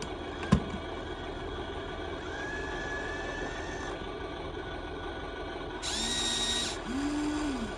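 Small electric motors of a radio-controlled model excavator whining in short spurts over a steady hiss. A thin whine runs for about a second and a half early in the stretch, then two louder whines follow near the end, the last one rising and falling in pitch.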